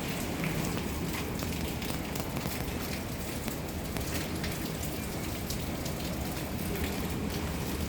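Heavy typhoon rain: a steady rushing noise with many raindrops ticking on hard surfaces.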